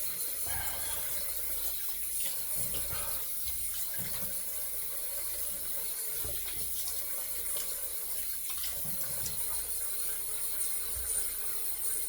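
Water running steadily from a tap into a sink as a straight-edge shavette razor is rinsed under the stream.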